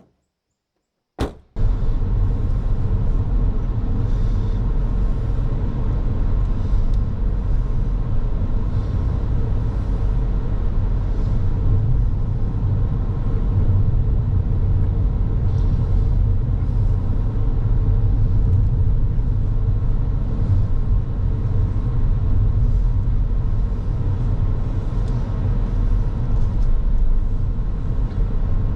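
Car driving: a steady low rumble of road and engine noise that starts abruptly about a second in, just after a click.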